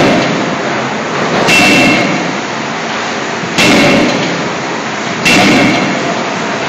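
CNC hydraulic closed-die forging hammer striking three times, about two seconds apart. Each blow is a loud, sudden impact with a short metallic ring, over a steady machine noise.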